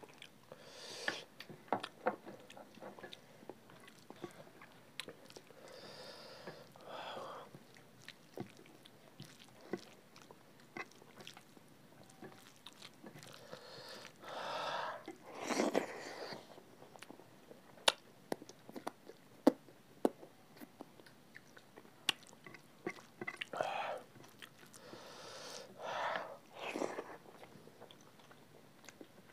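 Close-miked chewing and wet mouth noises of people eating rice, dal and egg curry with their hands: many short sharp smacks and clicks, with a few longer, louder breathy mouth sounds in between.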